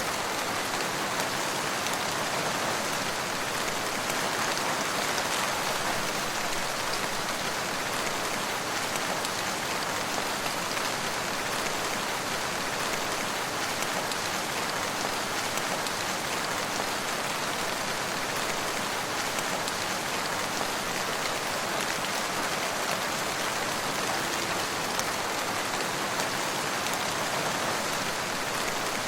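Steady rain falling on surfaces, a constant even hiss with scattered drop ticks.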